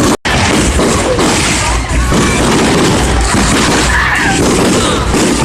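Fireworks going off in a dense barrage of bangs and crackle, with crowd voices mixed in. The sound cuts out for an instant just after the start.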